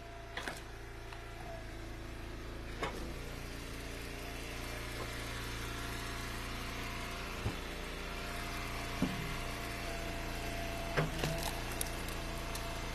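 Engine of an Eastonmade log splitter running steadily, with several short, sharp knocks of firewood being split and handled.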